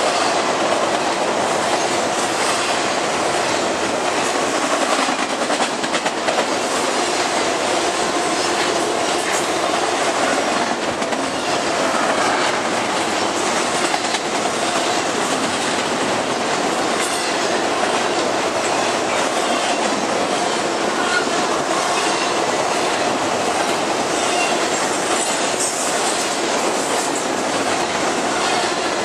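Intermodal freight train cars rolling past, a steady noise of steel wheels on rail that holds without a break.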